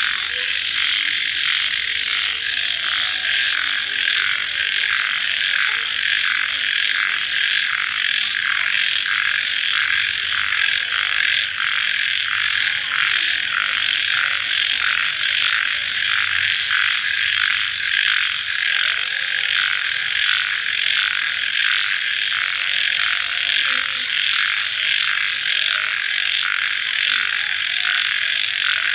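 Dense night-time chorus of calling animals just after rain: a steady, evenly pulsing trill that runs without a break, with a faint thin high tone above it.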